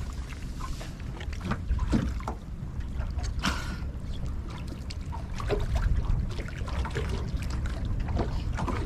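Water lapping and splashing against the hull of a small anchored fishing boat, in short irregular slaps, over a steady rumble of wind on the microphone.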